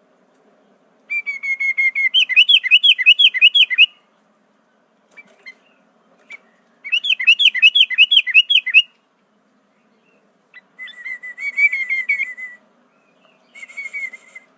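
Sooty-headed bulbul (kutilang) singing in four bursts of quick, repeated chirping notes, each burst one to three seconds long with short pauses between them.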